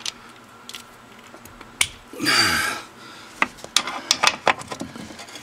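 Hand ratchet on a 13 mm socket with a swivel clicking in irregular strokes as a parking-brake bolt is worked, the clicks coming thick in the last two seconds. A short noisy burst with a falling pitch sounds a little after two seconds in.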